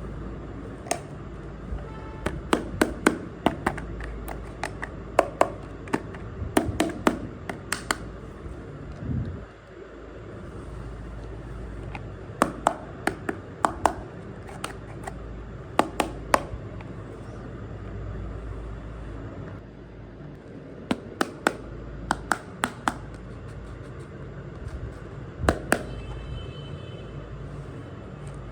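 Sharp clicks and clacks of miniature toy kitchen pieces being handled and set down, in irregular clusters of a few at a time, over a steady background hum.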